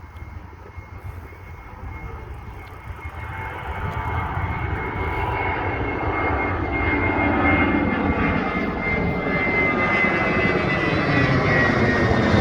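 Jet airliner taking off: engine rumble and a high steady whine growing steadily louder as it approaches, the whine dipping slightly in pitch near the end.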